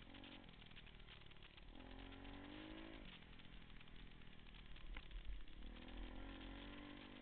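Pit bike engine being ridden, revving up and easing off several times as the throttle is worked. There is one sharp click about five seconds in.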